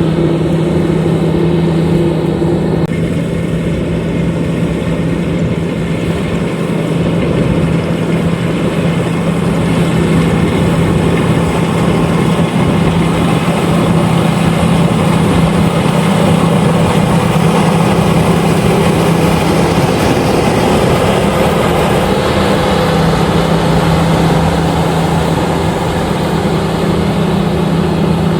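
LOVOL RG130EVO rice combine harvester running steadily under harvesting load, its engine and threshing machinery making a loud, even drone with a constant low hum.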